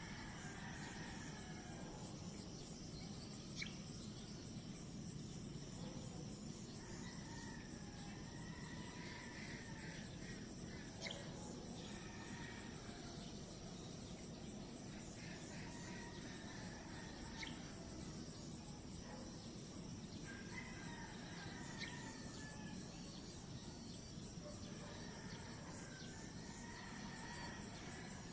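Outdoor nature ambience: a bird calling in short phrases every few seconds over a steady insect drone, with a few faint sharp ticks.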